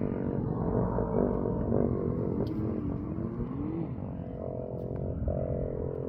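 Kawasaki KX450 dirt bike's single-cylinder four-stroke engine running under throttle, its pitch wandering and rising in the first half, then held steady at higher revs for the last couple of seconds.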